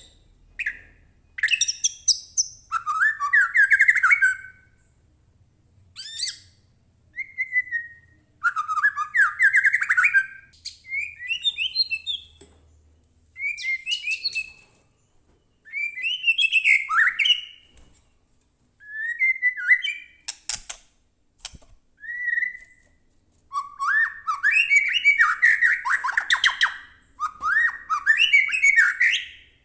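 White-rumped shama (murai batu) singing loudly in short varied phrases with brief pauses between them, mixing clear whistled glides with rapid high-pitched chatter. The phrases run longer and closer together near the end.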